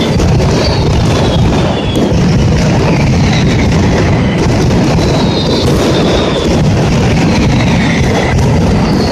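Mascletà firecracker barrage: a dense, unbroken crackle of firecrackers with high whistles that fall slightly in pitch, about a second each, repeating throughout.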